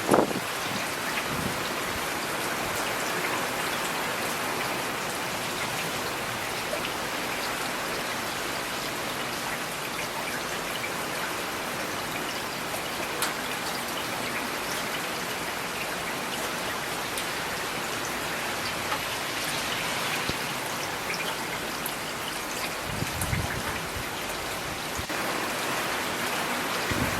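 Steady rain falling on hard surfaces, with scattered individual drops ticking through the hiss. A brief low rumble comes about three-quarters of the way through.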